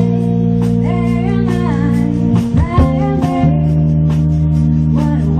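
A live band playing: held chords over bass and drums, with a lead line of sliding, bending notes on top. The chords change about two and a half seconds in and again a second later.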